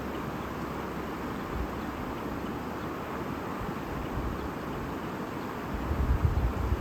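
A babbling stream flowing steadily, with a low rumble swelling in near the end.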